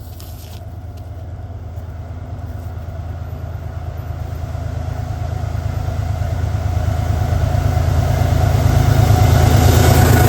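Diesel locomotive approaching, its engine's low, steady drone growing louder throughout.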